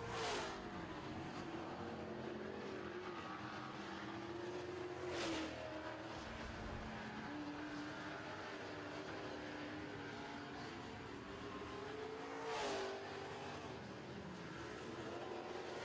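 Super truck race engines running around a dirt oval track under racing speed. The loud engine swells as trucks pass the microphone three times: near the start, about five seconds in, and again near the end.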